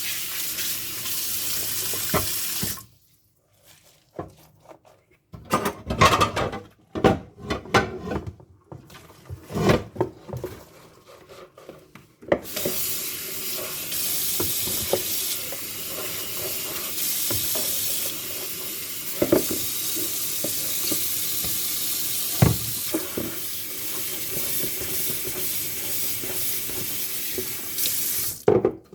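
Kitchen tap running into a sink, shut off after a few seconds, then dishes being handled with clinks and knocks. The tap is turned on again and runs steadily for about sixteen seconds, with a few knocks of dishes being rinsed under it, before it is shut off near the end.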